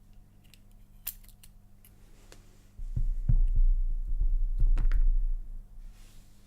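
Small sharp clicks of tiny lock pins and tweezers. Then, a little under three seconds in, about three seconds of louder low rumbling handling noise with several knocks as the parts of the disassembled padlock core are handled.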